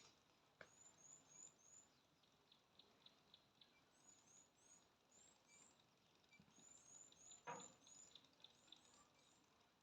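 Near silence with faint birds chirping in runs of short, high repeated notes. There is a brief click about half a second in and a short knock about seven and a half seconds in.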